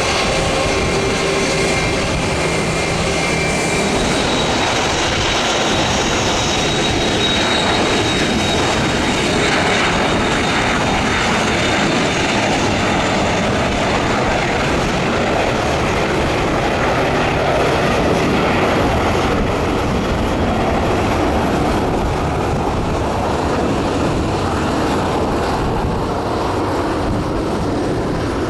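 Jet aircraft engines running loud and steady at close range, with a high whine over the noise for the first few seconds.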